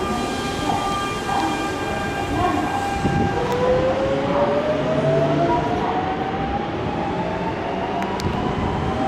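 Electric train pulling away: its traction motors give a whine that climbs steadily in pitch from about three seconds in, over the rumble of the cars. Before that, a steady whine of several high tones.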